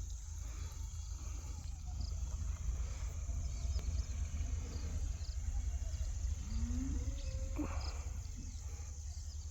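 Steady chirring of crickets over a low wind rumble on the microphone, with a short rising animal call about six and a half seconds in.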